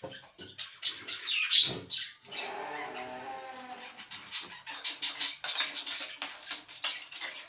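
Pet budgerigars chattering, a dense run of short, high chirps and squawks. A lower, steady sound joins in for about a second and a half, about two seconds in.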